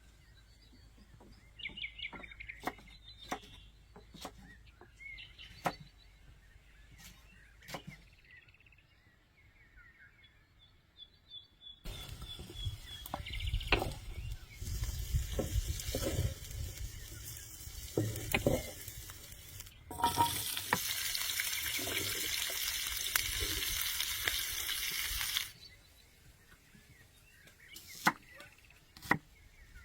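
Food frying in hot oil, sizzling and crackling, loudest and steadiest for about five seconds in the second half before it cuts off suddenly. Scattered clicks and knocks of utensils come before and after.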